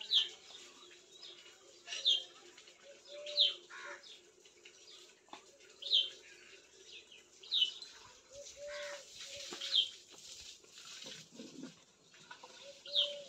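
Birds chirping: a sharp, high, falling chirp repeated every one to three seconds, with shorter, lower notes in between.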